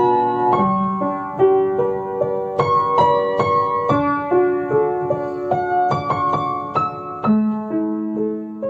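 Background music: a slow, gentle piano piece of single notes over held chords, with the last chord ringing out near the end.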